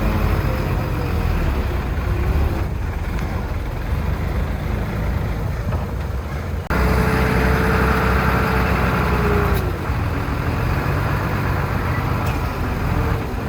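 Heavy diesel earthmoving machinery running steadily under load. About seven seconds in the sound changes abruptly, and a steady whine runs over the engine noise for about three seconds before dropping away.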